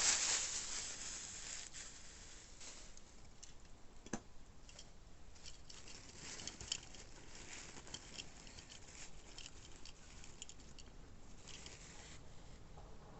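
Hands handling small diecast toy cars and their packaging: a brief rush of rustling at the start, then scattered small clicks and taps.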